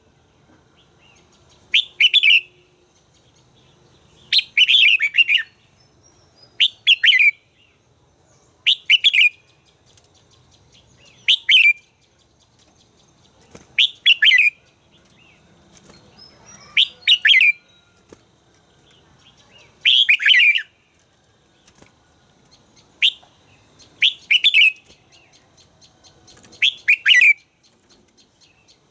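Red-whiskered bulbul singing short, bright phrases, repeated about every two to three seconds.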